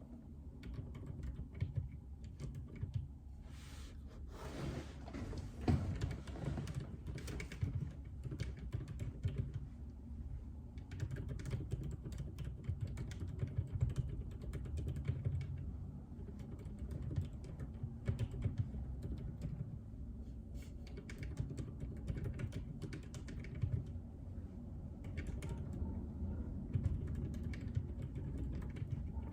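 Continuous typing on a JJK84 mechanical keyboard with Outemu Silent Peach linear switches: a steady run of dampened keystrokes. About four seconds in comes a louder, noisier stretch of about two seconds.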